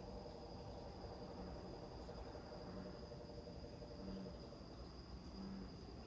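Night chorus of crickets trilling steadily, with bullfrogs giving short, low calls about every second and a half, over a low rumble.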